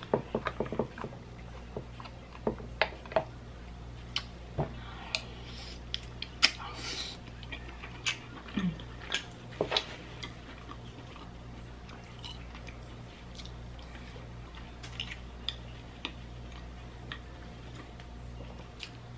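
Close-miked eating sounds: a hard-boiled egg being bitten and chewed, with wet mouth clicks and smacks. The clicks are frequent in the first half and sparser later.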